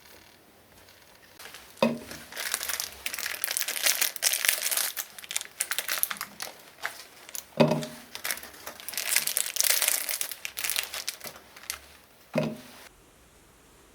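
Plastic packaging crinkling and crumpling in two long stretches, set off by three sharp thumps about five seconds apart.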